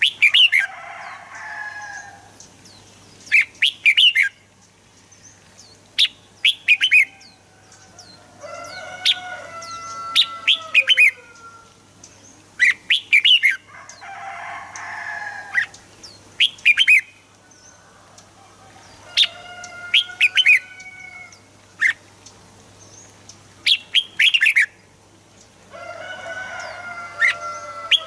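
Red-whiskered bulbuls singing: clusters of short, sharp whistled notes repeated every couple of seconds, alternating with lower, harsher chattering calls.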